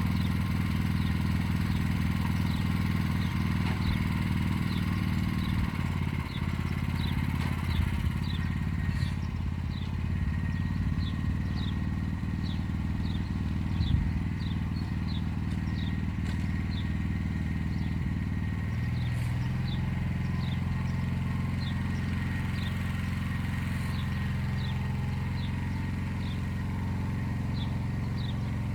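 Walk-behind tractor engine running steadily under load as it pulls an arrow-type hiller through the soil, the engine note shifting a little a few times, with a single knock about halfway through. A short high chirp repeats about every second over the engine.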